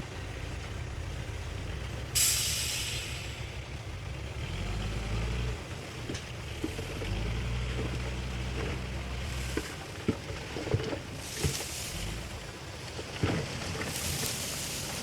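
Heavy diesel truck engine running at a low, steady rumble, with a sharp air-brake hiss about two seconds in. Fainter hisses and a few short knocks and clanks follow later.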